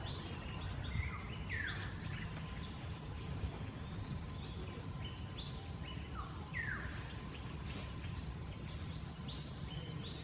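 Wild birds calling in the background: scattered short high chirps and two louder calls that sweep downward in pitch, about five seconds apart, over a steady low rumble of outdoor ambient noise.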